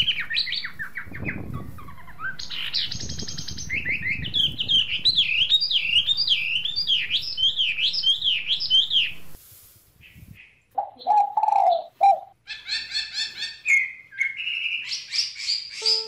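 Small birds chirping in quick repeated calls, with grass rustling underneath as someone moves through tall grass. Shortly before ten seconds in, the sound drops away briefly and different bird calls follow.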